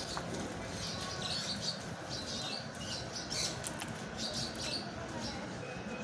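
Faint outdoor background noise with scattered short, high chirps from small birds.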